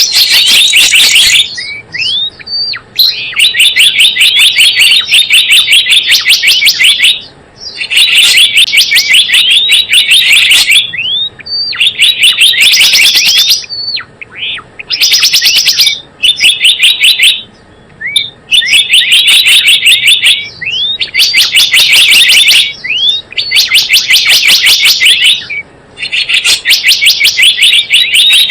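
Lure recording of a gelatik bloong bird: loud bursts of very fast, high chattering chirps, each lasting a second or two, separated by short pauses with single rising call notes.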